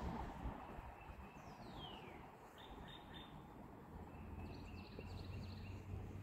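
Faint outdoor birdsong: short high chirps and a descending whistle about two seconds in, then quick repeated notes. A low steady hum joins in near the end.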